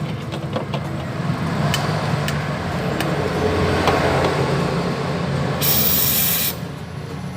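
Gas welding torch flame running steadily while a puncture in a refrigerator evaporator is welded shut, with a few light clicks and a brief burst of high hiss about six seconds in.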